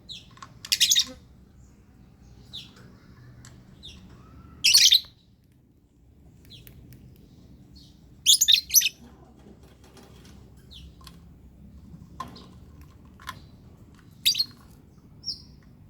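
Lovebird giving short, sharp high-pitched chirps at irregular intervals, some in quick clusters of several notes.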